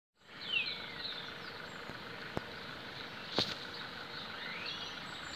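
Birds calling with a few short falling whistles over a steady hiss of coastal wind, with two faint clicks in the middle.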